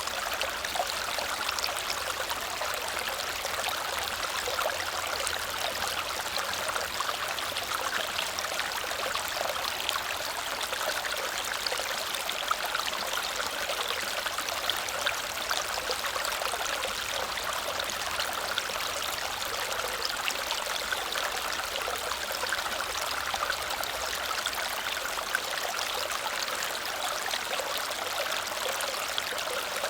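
Waterfall cascading: a steady rush of falling water with fine splashing detail, even in level throughout.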